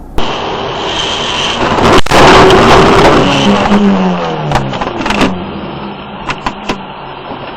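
Car crash heard from a dashcam: road and vehicle noise, a sharp bang about two seconds in, then a loud scraping crash that dies away into scattered clicks and knocks.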